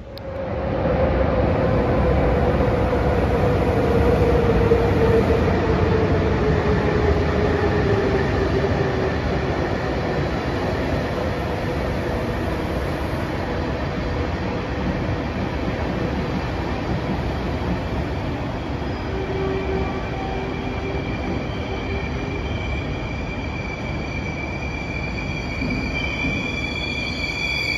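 Swiss passenger train running into an underground station, its heavy rumble filling the platform. A whine falls slowly in pitch as the train slows, and about two-thirds of the way in a high steady brake squeal joins.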